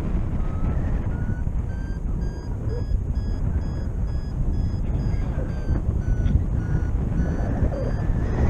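Paragliding variometer beeping, a quick run of short beeps at about two to three a second. Its pitch shifts with the climb rate, dipping around six seconds in and rising near the end: the glider is climbing in a thermal. Steady wind rush on the microphone underneath.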